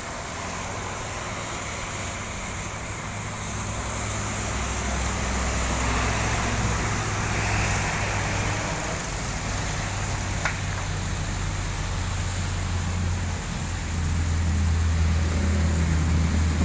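A heavy truck's engine running slowly at low pitch, getting louder as it comes closer, over a steady hiss of traffic on a wet road.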